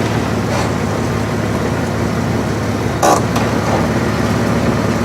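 Vehicle engine running steadily at low speed, with a single sharp knock about three seconds in.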